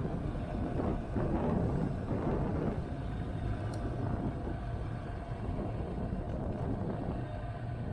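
Motorcycle engine running at a steady riding speed under rushing wind on the microphone, gusty for the first few seconds and then steadier.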